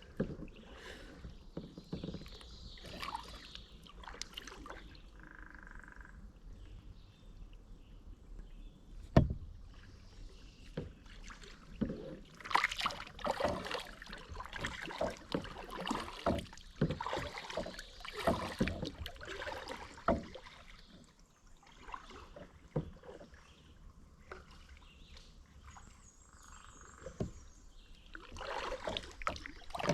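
Kayak paddle strokes splashing and dripping in the water in irregular runs, busiest in the middle and near the end, with a single sharp knock about nine seconds in.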